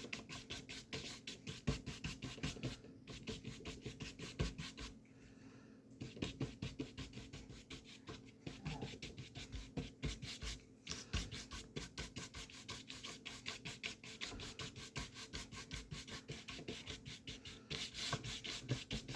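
Paintbrush scrubbing gouache across paper in quick, repeated back-and-forth strokes, several a second, with a short pause about five seconds in, as blue paint is blended into white.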